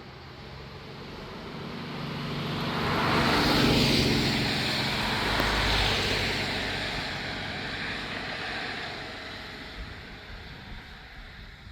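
A motor vehicle passing close by: its engine and rushing noise swell to a peak about four seconds in, drop in pitch as it goes past, and fade away.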